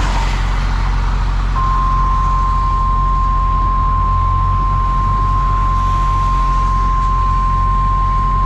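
Steady low rumble of a semi truck's engine running. A single steady electronic beep tone comes in about a second and a half in and holds.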